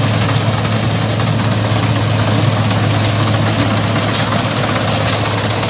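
Rice combine harvester running steadily close by: a strong, even low engine hum under a constant mechanical rush.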